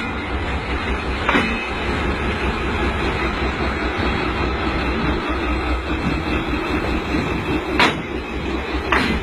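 Train locomotive running with a steady rumble, with a few short sharp knocks, one about a second and a half in and two near the end.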